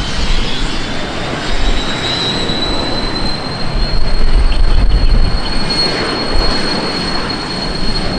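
Aircraft passing close by: a loud, continuous engine roar with a high-pitched turbine whine that rises slightly over the first couple of seconds and then holds steady.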